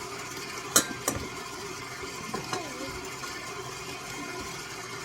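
A few sharp clicks and taps of utensils against a bowl or measuring cup, the loudest two close together about a second in, over a steady mechanical hum.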